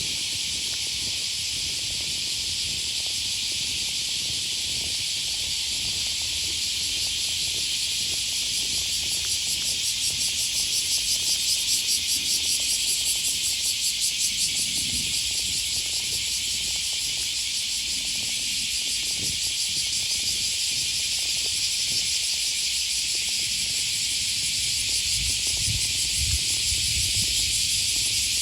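A chorus of cicadas: a dense, steady high buzzing that swells and pulses a little louder about ten seconds in.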